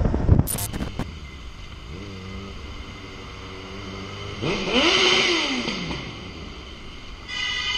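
Motorcycle engine revving. It climbs and holds at about two seconds, then a louder rev rises and falls back about five seconds in. The first half second is loud wind and engine noise that ends with a few clicks.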